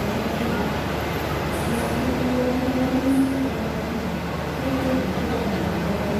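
Steady running noise of a rail vehicle at the platform, with a low hum that comes and goes, strongest a couple of seconds in.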